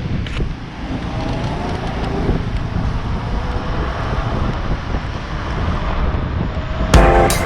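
Wind buffeting the microphone on a moving vehicle, over a steady low road rumble, with a faint rising motor pitch about a second in. Music with drums starts near the end.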